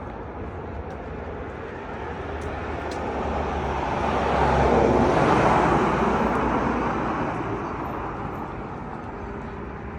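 A car passing by: its tyre and engine noise rises to a peak about halfway through, then fades away.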